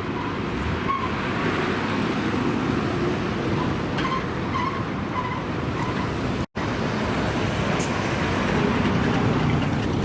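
American muscle-car engines running with traffic noise, a steady low rumble. The sound cuts out briefly about six and a half seconds in.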